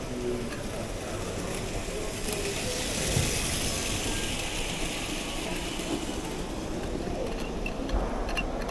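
Small mechanism clicking and rattling, with a sharp knock about three seconds in and another near the end.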